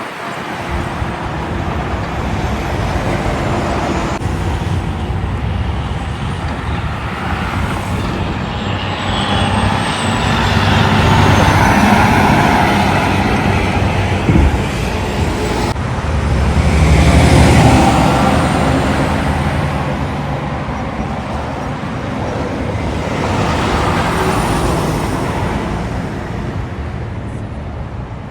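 Road traffic with heavy trucks passing close by, engine and tyre noise swelling as each one goes past, three times.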